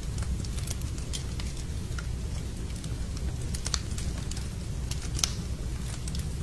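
Fireplace fire crackling: irregular sharp pops and snaps, the loudest about halfway and two-thirds through, over a steady low rumble.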